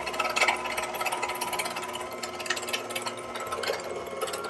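Amzchef slow masticating juicer's electric motor turning its meat-grinder auger: a steady motor whine with scattered crackling clicks as meat is pushed through the grinding plate.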